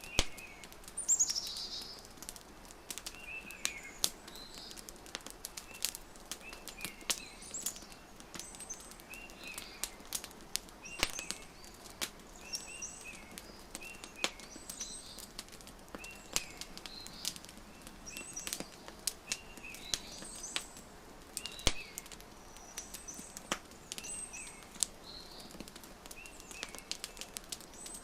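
Wood fire crackling with irregular sharp pops, while small birds chirp over it in short repeated calls every second or two.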